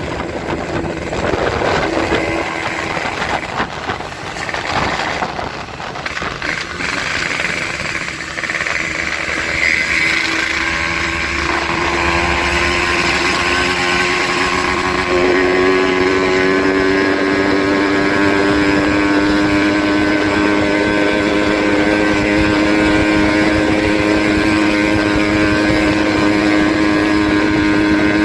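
A motorcycle running through a gutted, open 'bobokan' exhaust. For the first several seconds it is revved unevenly in short blips. Then it settles into a steady drone whose pitch creeps slowly up, louder from about halfway.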